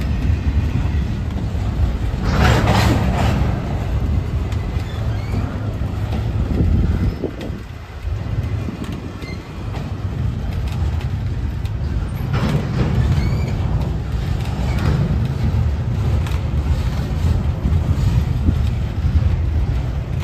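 Train rolling past on steel rails: a steady low rumble of wheels and cars, with louder passages about two to three seconds in and again around twelve and fifteen seconds in, easing briefly near eight seconds.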